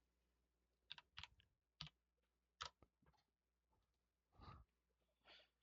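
Near silence broken by a few faint, scattered key clicks in the first three seconds, then two softer, longer sounds near the end.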